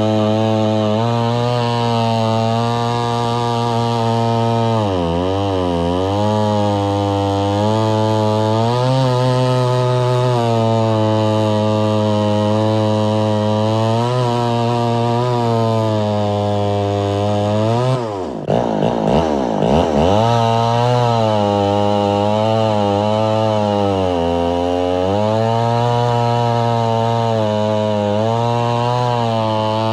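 Gas chainsaw running hard on a freshly sharpened chain while cutting wood. Its engine note dips in pitch several times as it loads in the cut, most deeply about 18 seconds in, then climbs back up.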